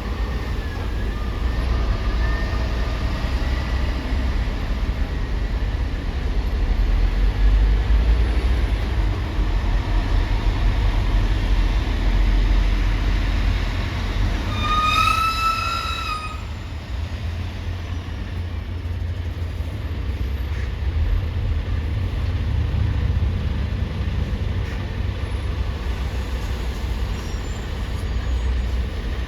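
Low, steady rumble of heavy vehicles, such as trucks at a ferry port, with one short high-pitched squeal lasting about a second and a half midway through.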